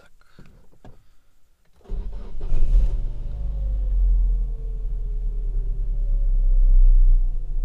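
A few faint clicks, then the Chery Elara's petrol engine starts about two seconds in and settles into a steady idle, heard from inside the cabin. A faint whine falls slowly in pitch as the revs settle.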